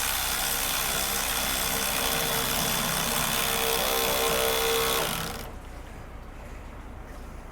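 Battery-powered drill/driver running steadily for about five seconds while tightening a clamp over exhaust wrap, its motor tone strengthening toward the end, then stopping.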